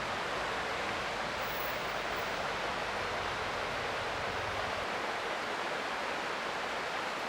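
Creek water running steadily, an even continuous rush with no distinct splashes.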